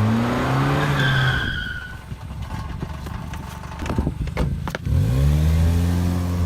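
Car engine running and revving, its pitch rising and falling, with a short high squeal about a second in and a few sharp clicks around four seconds.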